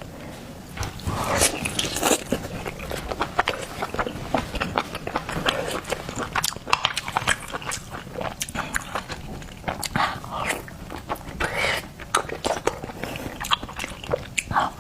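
Close-miked eating of seafood: biting and chewing with wet, irregular mouth clicks and smacks.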